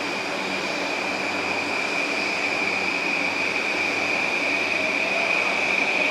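A train approaching on the tracks, its rumble growing steadily louder, with a steady high-pitched squeal over it. Near the end a faint rising whine joins in.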